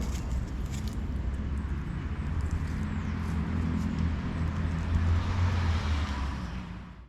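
Motorcycle engine running with a steady low rumble. It grows louder about five seconds in, then fades out near the end.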